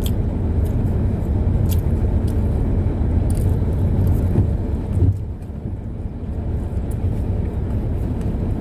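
Steady engine and road rumble inside a moving car's cabin, easing off briefly about five seconds in before building back up.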